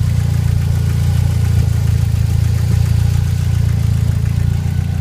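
1993 Jeep Wrangler's 2.5-litre inline four-cylinder engine idling steadily under test.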